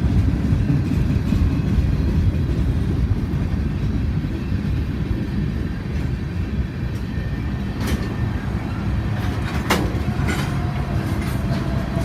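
Freight train rolling past with a steady low rumble of wheels on rail, with a few sharp clacks in the last few seconds.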